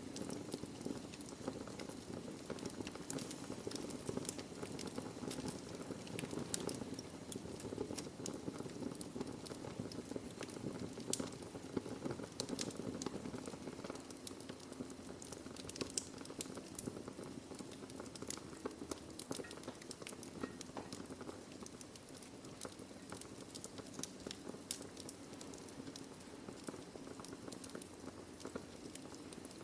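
Wood fire in a fireplace burning steadily: a low rushing hiss with a constant scatter of sharp crackles and pops from the burning logs.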